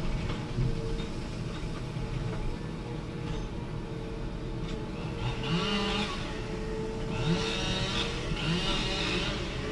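Forestry machine's diesel engine running under hydraulic load with a steady hydraulic whine; from about five seconds in it surges and revs four times in quick succession as the harvester head works.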